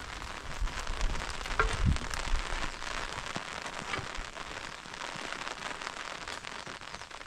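Steady rainfall: an even hiss made up of many small drop ticks. A brief low rumble comes about two seconds in.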